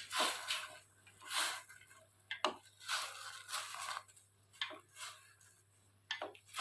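A run of irregular crunches and rustles, each under half a second long, with a few sharp clicks among them.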